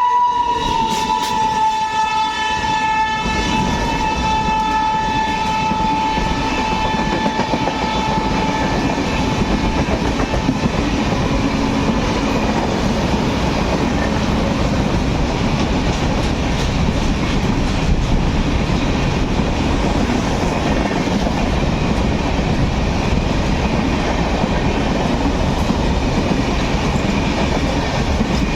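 Indian Railways train passing close by, its horn sounding with a slight drop in pitch as the locomotive goes past and fading out about nine seconds in. Under it, and then on its own, the steady rumble and clatter of the wheels on the rails as the coaches or wagons roll by.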